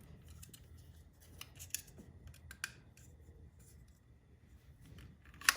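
Small clicks and light scraping of a tool and parts being handled and fitted, with one sharp, louder click about five and a half seconds in.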